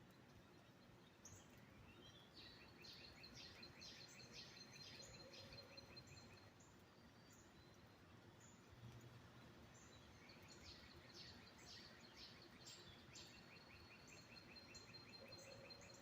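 Faint birdsong: a songbird sings two phrases of rapid repeated notes, each lasting about four seconds, one a couple of seconds in and one past the middle. Short high chirps from other birds are scattered throughout.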